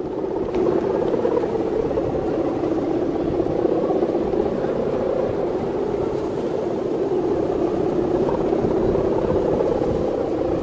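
Steady, droning hum from a Balinese kite's hummer (guangan) vibrating in strong wind, with wind buffeting the microphone underneath. It gets louder about half a second in and holds steady.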